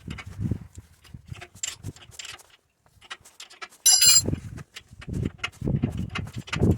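Irregular knocks and clatter of tools and metal parts being handled during an electric forklift repair, with a short, shrill squeal about four seconds in.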